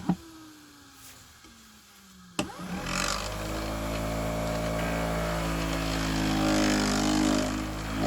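Electric motor of a knife and scissors grinding machine fitted with a wool buffing wheel: a click, a hum falling in pitch as it winds down, then another click about two and a half seconds in and the motor starts and runs steadily with a whirring hum, ready for polishing with green compound.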